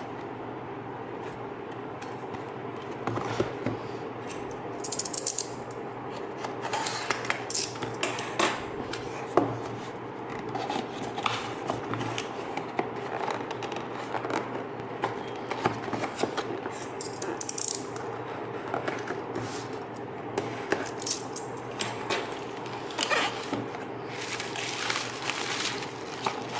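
Packaging of a boxed electronics adapter being handled and opened: irregular clicks, taps and short scraping rustles of box and plastic, over a steady low hum.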